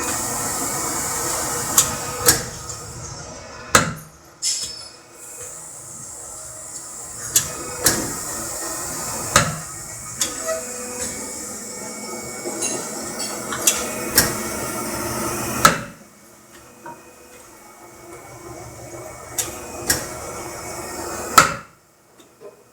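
60-ton hydraulic plate punch press running, its pump making a steady sound, with sharp metal bangs every second or two as the punch or shear goes through the steel. The machine sound cuts off suddenly near the end.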